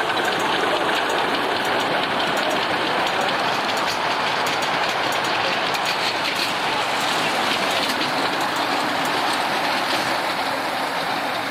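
Miniature ride-on railway train running past on the track: steady wheel-on-rail rumble with a rapid clickety-clack of wheels over the rail joints.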